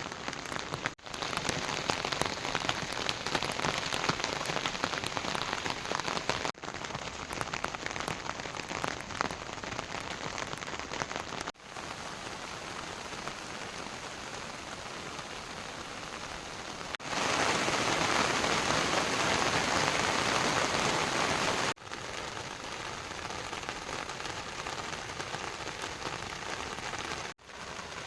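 Heavy rain falling: a steady hiss with the patter of drops, in several shots cut together. The sound drops out briefly at each cut and changes texture, and it is densest and loudest for a few seconds past the middle.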